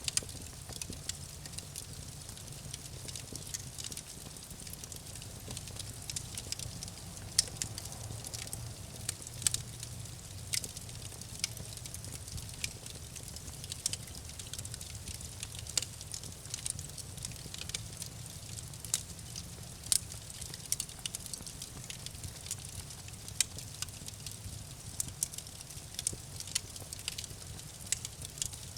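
Campfire crackling: irregular sharp pops and snaps from burning wood over a steady low rumble of the flames.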